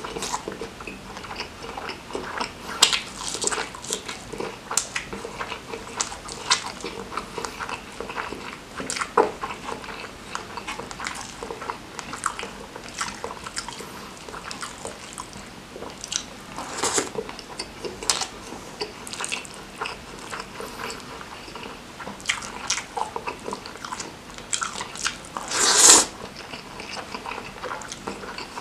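Close-miked eating: biting and chewing a mouthful of omelette and curried rice eaten by hand, with many short wet mouth clicks and smacks. Near the end comes one louder, noisy burst about half a second long.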